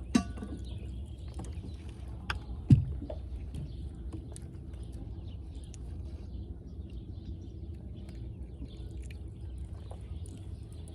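A few sharp knocks, the loudest about three seconds in, over a steady low rumble of wind and water, with faint bird chirps scattered throughout.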